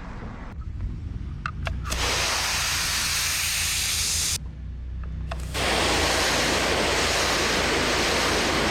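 Pressure washer wand spraying water onto concrete, a loud steady hiss over the low hum of the machine's engine. The spray starts about two seconds in, stops briefly near the middle as the trigger is let go, and starts again.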